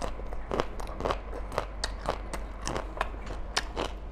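A person chewing a mouthful of food with crisp, irregular crunches, about two or three a second.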